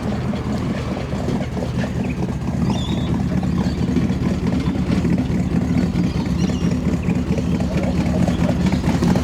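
A V8 car engine running close by at a steady low speed: a deep, even rumble with a fast pulse, growing slightly louder near the end.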